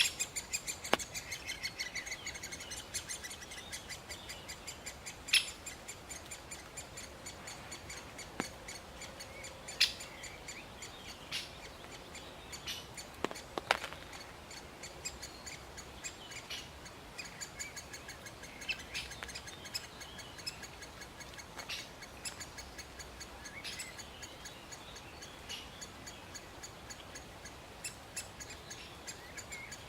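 Great spotted woodpecker calling: a long, fast series of short, high repeated notes, loudest near the start, with a few sharp, loud single calls standing out.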